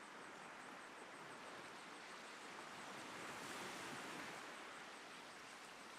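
Faint sea surf washing on the shore, a steady wash of noise that swells a little about halfway through.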